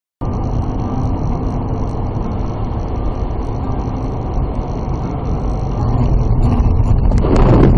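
Steady low rumble of a car driving, road and engine noise, starting abruptly and growing louder and harsher near the end.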